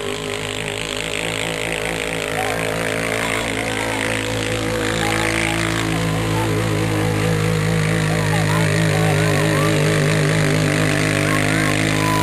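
Engine of a pulling-competition vehicle running steadily, its pitch wavering slightly and its sound growing fuller and a little louder about halfway through.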